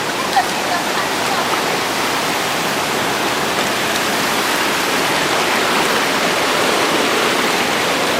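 River water rushing over rocks, a steady, loud noise.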